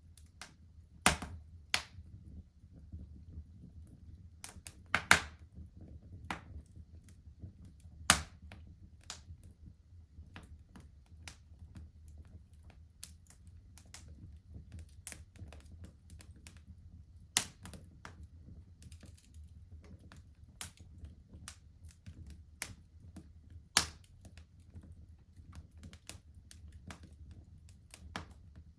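Wood fire in a fireplace crackling, with irregular sharp pops, the loudest about one, five and eight seconds in and again near seventeen and twenty-four seconds, over a low steady rumble.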